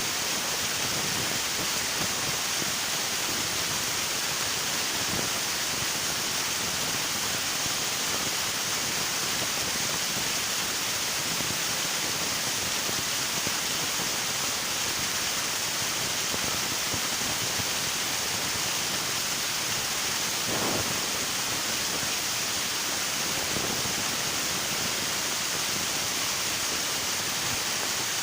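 River water rushing steadily over rocks, a constant even hiss of flowing water, with a brief slight swell about three quarters of the way through.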